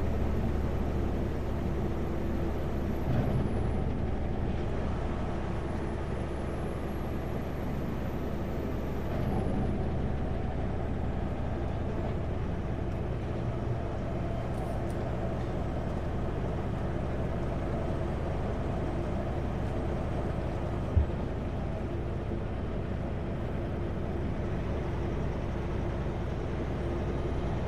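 Kenworth W900L semi truck's diesel engine running steadily under way, a low, even rumble with road noise. A single short knock comes about 21 seconds in.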